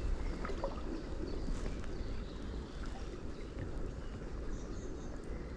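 Wind rumbling steadily on the microphone, with the faint wash of river water.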